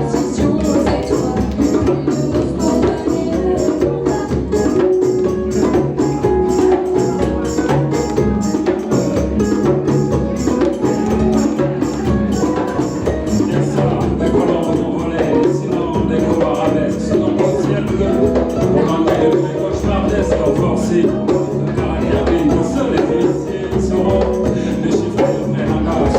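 Live band playing instrumental music with a steady percussion beat.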